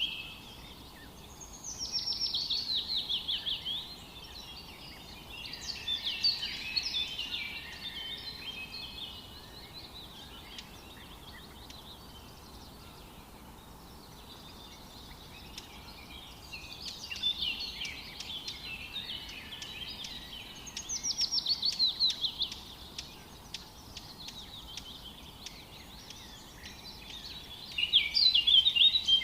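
Songbirds singing in a forest: phrases come every few seconds, several of them fast runs of notes falling in pitch, over a faint steady background hiss.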